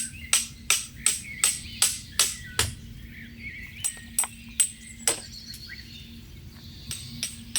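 A run of sharp, ringing metallic strikes, about three a second, that thin out after a couple of seconds and pick up again near the end, with birds chirping.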